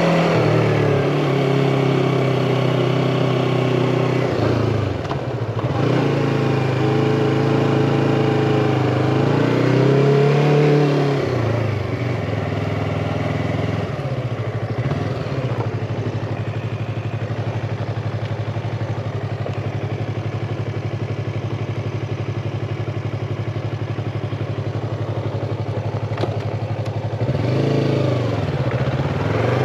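Yamaha MT-25's parallel-twin engine running on the road. Its speed drops and picks up again at about five and eleven seconds, holds a steady drone for about fifteen seconds, then dips and rises once more near the end.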